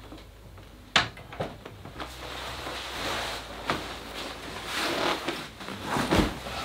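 Handling noises: a sharp click about a second in, then rustling with a few knocks.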